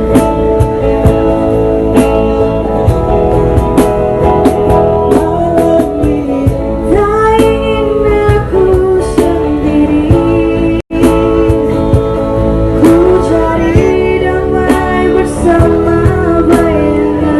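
Acoustic band playing a song: a singer's voice over strummed acoustic guitar chords. The sound drops out for an instant about eleven seconds in.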